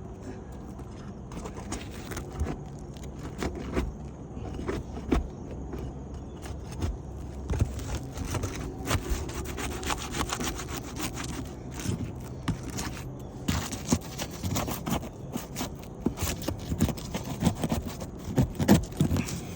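Irregular scraping, crackling and sharp clicks of asphalt shingles being pried and worked loose by hand, the strokes getting denser and louder in the second half. The sealed tabs are stuck down to the shingle below.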